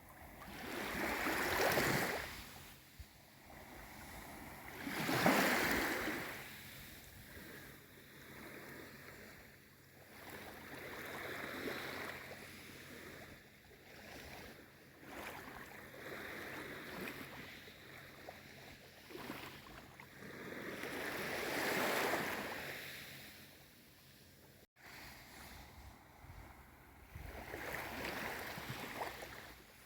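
Gentle waves of a calm sea washing in and drawing back. Each wash swells and fades over a second or two, every few seconds. There is a split-second cut in the sound about three-quarters of the way through.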